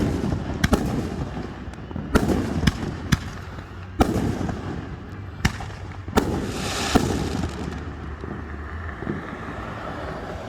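Fireworks bursting: a run of sharp booms, most a second or less apart, then a stretch of hiss about six seconds in. It grows quieter and sparser toward the end.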